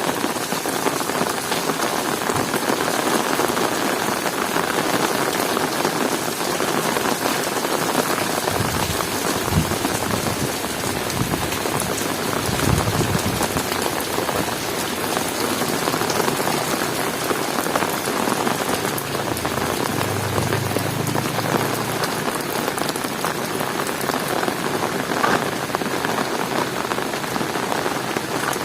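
Heavy rain falling steadily, a dense patter of drops hitting hard surfaces.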